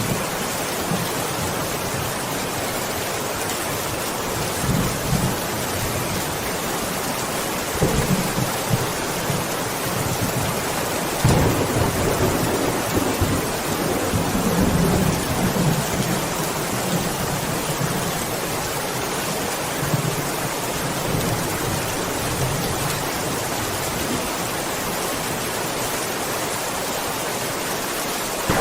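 Steady rain with rolling thunder: a few short low rumbles in the first third, then a longer rolling peal through the middle, and another beginning right at the end.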